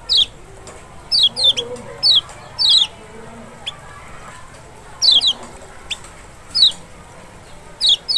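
Kecial Lombok (lemon-bellied white-eye, Zosterops chloris maxi) calling as a lure for other kecial: short, high, downward-slurred chirps in quick pairs and triplets, repeated every second or so with brief pauses.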